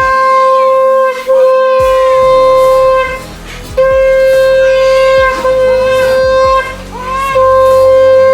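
Conch shell (shankha) blown in a series of five long, loud blasts on one steady pitch, with short breaks between them: the traditional Bengali welcome for a newborn brought home.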